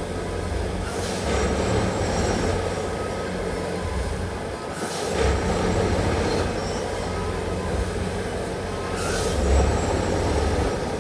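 Railway track tamping machine at work: its engine running with a steady low hum and steady tones, broken by three short bursts of higher-pitched noise, about a second in, near the middle and near the end.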